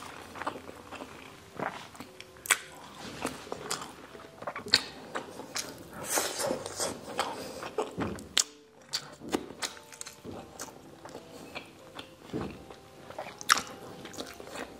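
A person chewing mouthfuls of braised pork asado and rice, with irregular sharp mouth clicks and smacks.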